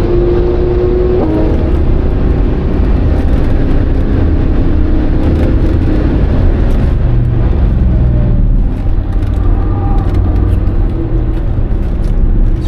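Cabin sound of an Alfa Romeo 156 1.9 JTD four-cylinder turbodiesel driven hard on a race track: steady engine drone with road and wind noise. The engine note steps down about a second in.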